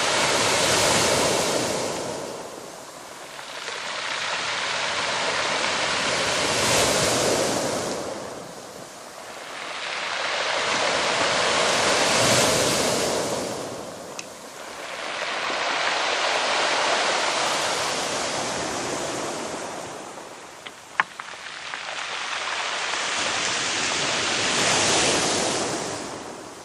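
Sea waves washing onto a shore: a broad rush that swells and fades roughly every five to six seconds. A single sharp click is heard late on.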